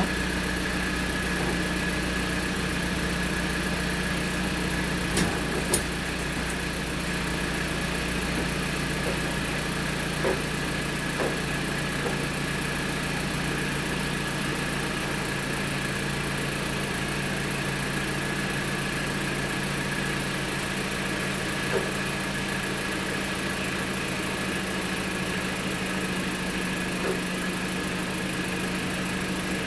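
A car's freshly replaced engine idling steadily, with a few faint clicks.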